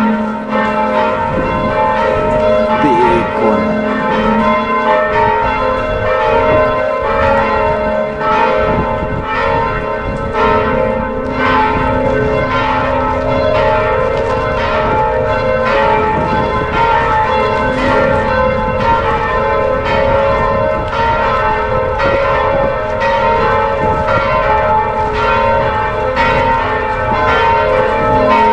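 Church bells ringing: a dense, even run of strikes, about one to two a second, each bell ringing on so that the tones overlap into a steady wash.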